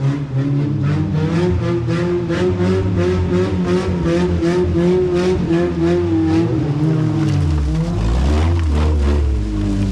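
Honda Civic hatchback's four-cylinder engine revving hard and held at high, wavering revs, with a rapid even pulsing about four times a second. The revs fall away about seven and a half seconds in.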